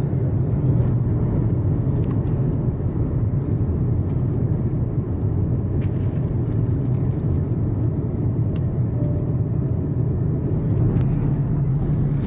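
Steady low cabin rumble of an Airbus A330-900neo airliner, its Rolls-Royce Trent 7000 engines and airflow heard from a seat inside the cabin, with a few faint clicks over it.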